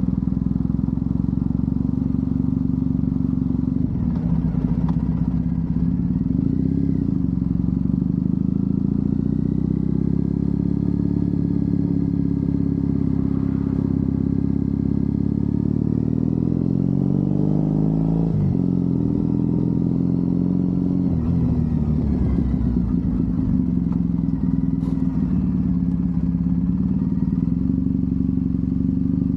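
Triumph Bonneville parallel-twin engine running under way. A little past the middle the revs climb for about two seconds, then drop sharply at a gearshift, and they dip again a few seconds later.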